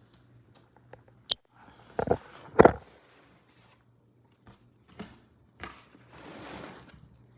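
A cardboard box with a blanket inside being handled and shifted: a sharp click about a second in, two loud scraping rustles soon after, then a few light knocks and a softer rustle near the end.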